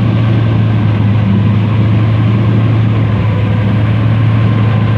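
Airboat engine and propeller running steadily, a loud even drone with a strong low hum.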